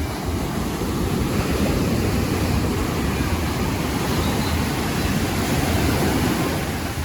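Ocean surf breaking and washing up the beach, a steady rushing noise that swells about a second in and eases off near the end.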